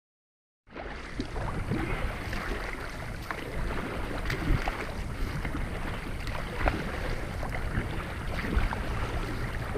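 Water splashing and lapping around a kayak, with many small irregular splashes and knocks, over a steady low rumble of wind on the microphone; it starts abruptly just under a second in.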